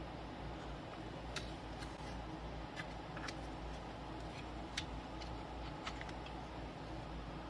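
Light, irregular clicks and taps from hands and small tools working on an LCD panel during polarizer film installation, about eight in all, the sharpest a little under five seconds in, over a steady low hum.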